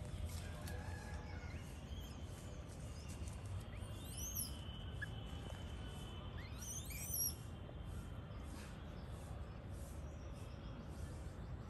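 A bird gives two quick high calls that sweep upward, about four and seven seconds in, over a low steady rumble.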